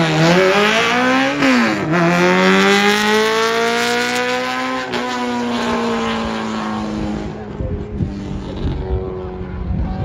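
Small car's engine revving hard on a slalom autocross run: the pitch drops sharply twice, at gear changes, then climbs and holds before fading as the car pulls away.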